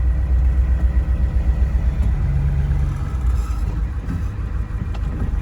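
A 7.3-litre IDI turbo-diesel V8 in a 1973 Ford F-250 4x4 running loud under throttle, pushing the truck at a snow pile. It eases off about three seconds in.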